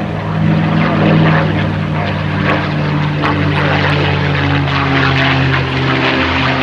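P-51 Mustang's V12 piston engine running loud and steady as the plane flies, its propeller drone dipping slightly in pitch about two seconds in.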